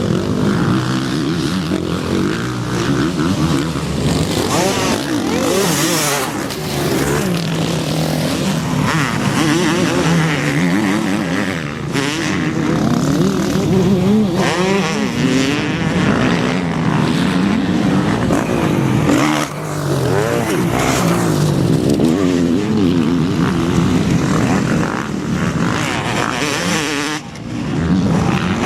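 Several motocross bikes' engines running on the track, revving up and down over and over, their pitches rising and falling and overlapping.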